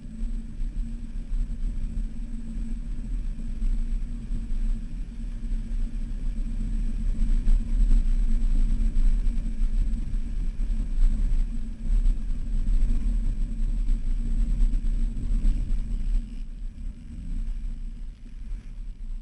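Jeep engine running as it drives over sand dunes, a low steady rumble that builds louder through the middle and eases off near the end.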